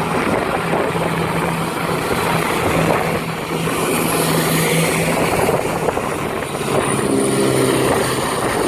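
Class 170 Turbostar diesel multiple unit pulling out of the station, its underfloor diesel engines running under power with a steady low hum and the noise of the train moving.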